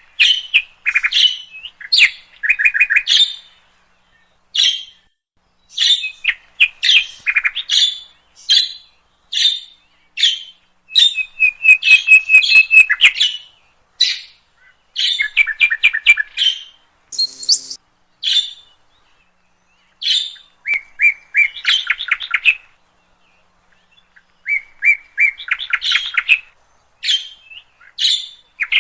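Budgerigars chirping: many short, high chirps and quick rattling trills in clusters with brief pauses between them, with one brief harsher note about two-thirds of the way through.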